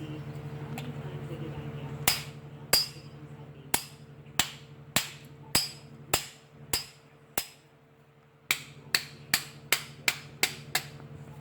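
A hammer striking a bent metal engine part to bend it straight, with about seventeen ringing blows. They start about two seconds in, come roughly every half second to second, then quicken near the end. A steady low hum runs underneath.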